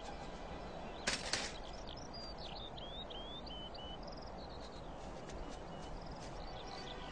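Short high bird chirps, several in a quick run that rise and fall, over a steady soft outdoor rushing sound. A brief rustling burst comes about a second in.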